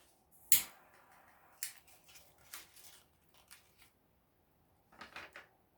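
Small wood campfire crackling, with sharp pops and snaps from the burning wood: a loud one about half a second in, a few scattered ones, and a quick cluster near the end.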